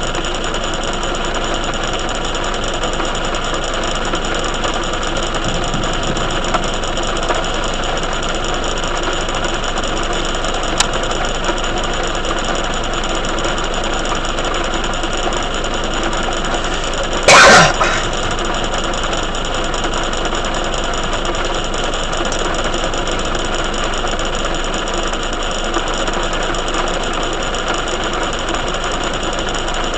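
Heavy rain falling steadily, with one sharp, very loud crack a little past halfway.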